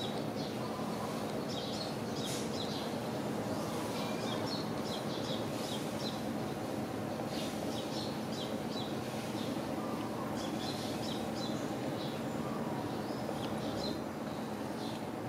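Small birds chirping in quick clusters of short, high notes every second or two, over a steady background of outdoor noise.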